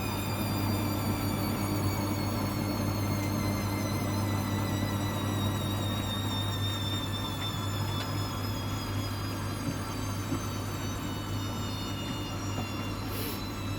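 Hoover washing machine in a spin on its cotton 90 programme: a steady low hum under a motor whine that falls slowly in pitch as the drum slows down.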